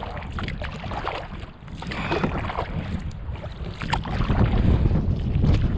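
Strong wind buffeting the microphone as a low rumble that grows louder in the second half, with short splashes of water at a canoe.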